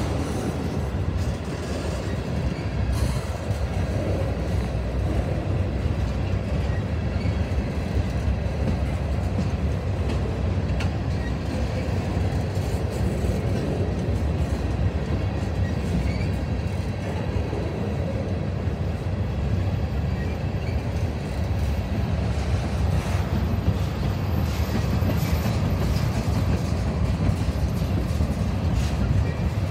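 Freight train of covered hopper cars rolling past at steady speed: a continuous low rumble of steel wheels on rail.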